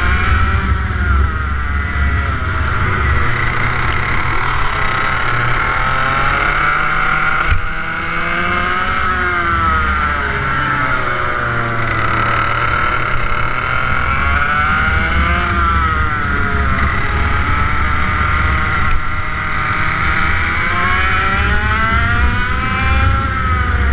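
TM K11B 100cc water-cooled two-stroke kart engine running at speed, its pitch climbing under acceleration and dropping off again several times, with a steady low rumble underneath.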